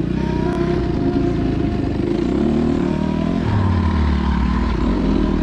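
Honda CRF250 dirt bike's single-cylinder four-stroke engine running under way, its note rising and falling with the throttle. The engine tone drops lower and grows stronger about three and a half seconds in.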